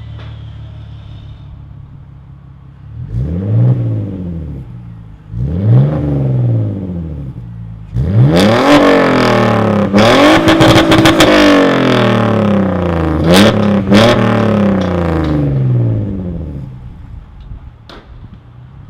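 Car engine idling and revved through its exhaust: two quick blips, then a long climb to high revs held briefly, two more blips, and a drop back to idle. There are a few sharp clicks near the top of the revs.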